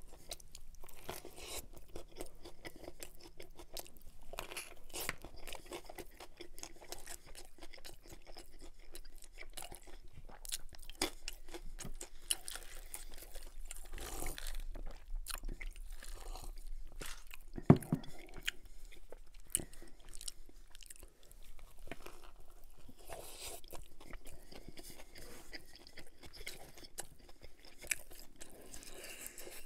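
A person chewing mouthfuls of a flour-tortilla steak taco close to the microphone: a steady run of wet mouth clicks and smacks. About halfway through there are swallows from a glass of drink, and a single sharp knock shortly after.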